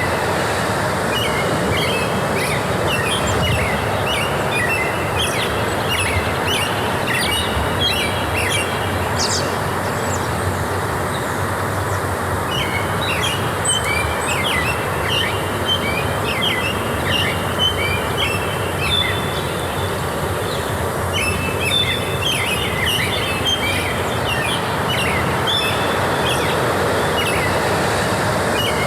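Forest ambience: many songbirds chirping and twittering in quick runs, with two brief lulls, over a steady rushing background noise.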